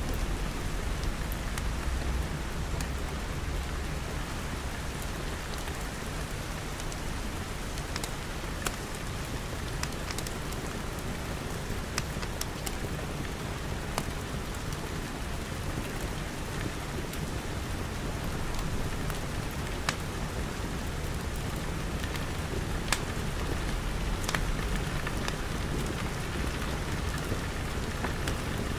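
Steady rain pattering on glass, with a low rumble underneath and scattered sharp crackles from a wood fire.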